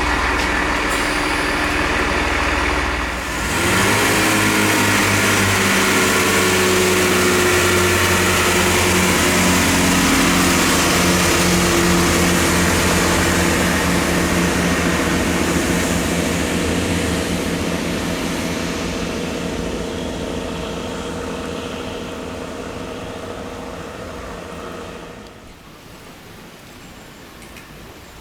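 Diesel train's engines running loud and steady, the engine note rising about three seconds in as it works, then fading away over the following twenty seconds.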